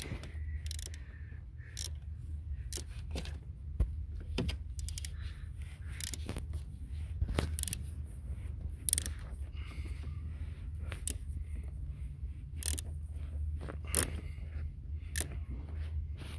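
Metal hand tool clicking and scraping in short, irregular strokes while tightening a 1.6 HDi diesel injector's clamp bolt that had worked completely loose, over a steady low hum.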